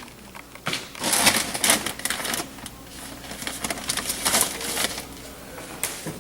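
Kitchen handling noises: quick clicks and short rustling rattles, bunched about a second in and again later.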